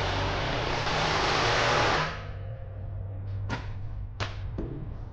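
A loud, steady rushing hiss with a low hum underneath cuts off suddenly about two seconds in. It is followed by a string of sharp clicks and knocks from hand tools and metal parts being handled during the exhaust work.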